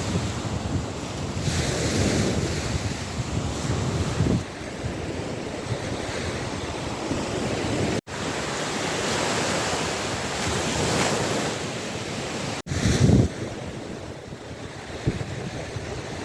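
Waves of the Gulf of Finland washing on the shore, with wind buffeting the microphone. The sound breaks off for an instant twice, about eight and thirteen seconds in, and a louder surge follows the second break.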